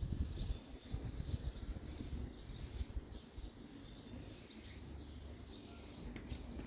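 A bird chirping in the background, with quick runs of high notes about one second in and again about two seconds in, over a low rumble.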